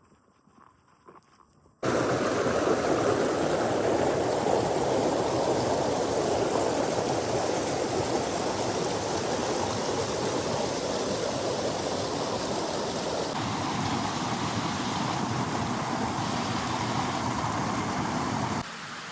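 Rushing water from a woodland stream cascade or small waterfall: a steady, even rush that starts abruptly about two seconds in, after faint quiet sounds. It changes slightly in tone past the middle and drops away just before the end.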